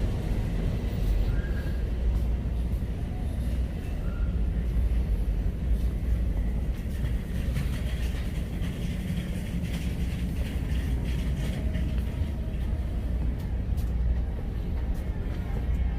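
Steady low rumble of ambient noise, with faint music in the background.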